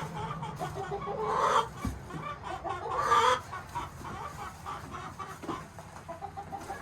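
Hens clucking. There are two louder drawn-out calls, about one and a half seconds and three seconds in, over softer continuous clucking.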